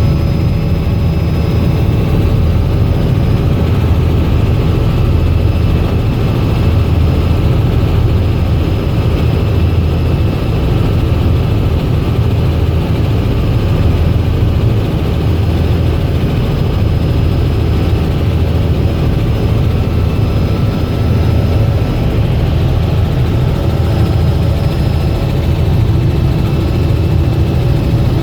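Robinson R66 helicopter in flight: a steady, heavy rotor and turbine-engine rumble, with faint steady high whines above it.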